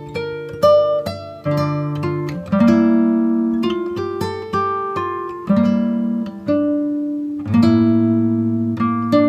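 Background music of plucked acoustic guitar, single notes picked over bass notes that change every couple of seconds.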